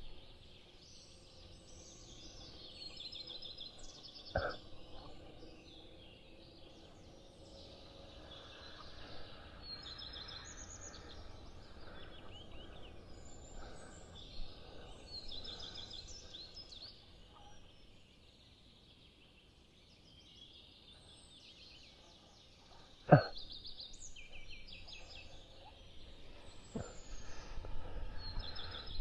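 Songbirds singing, many short repeated high chirping phrases, over a faint low wind rumble on the microphone. A sharp click sounds about four seconds in, and a louder one near the end, with a weaker one soon after.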